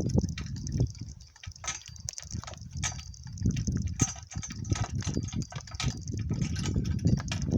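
Donkey-drawn cart on the move: irregular hoof clops and knocks from the cart jolting over rough ground, over a steady low rumble.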